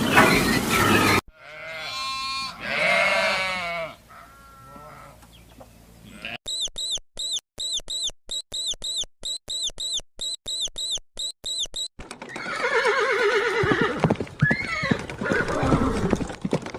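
A sequence of different animal calls cut one after another: first bleat-like calls with a rich, buzzy tone, then a fast run of short, high chirps repeated about three times a second, then a rougher, noisier call.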